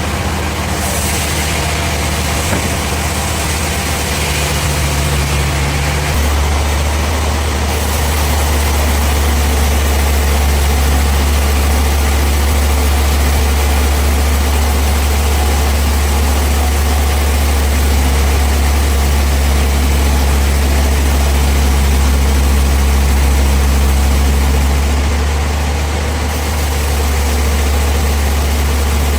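Bandsaw sawmill machinery running with a steady, loud, low hum. It grows a little fuller about six seconds in and eases slightly near the end.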